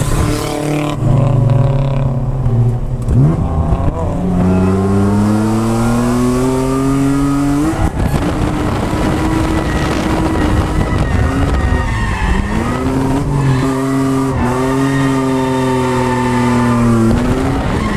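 Drift car engine revving hard on track: the revs climb for several seconds, drop sharply about eight seconds in, then climb again and drop once more near the end. Tyre noise runs underneath.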